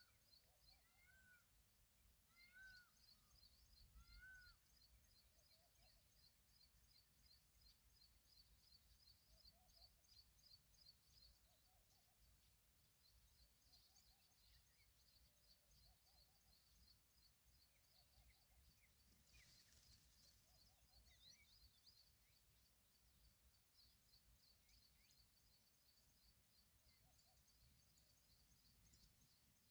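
Faint bird calls: a bird repeats a short arched call about every three-quarters of a second for the first few seconds, over steady high-pitched chirping throughout. A brief rustle comes about two-thirds of the way through.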